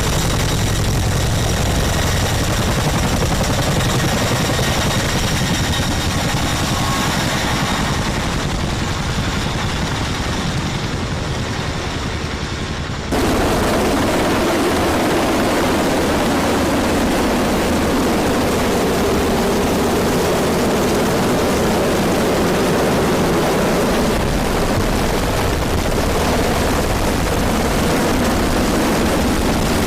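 Military helicopter rotor and turbine noise, loud and steady. About a third of the way in it cuts abruptly to a closer, rougher churning of rotor wash.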